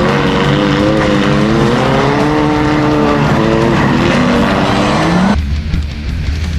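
Demolition derby compact car's engine revving hard, its pitch wavering up and down, with tire and scraping noise over it; the sound cuts off suddenly a little past five seconds in.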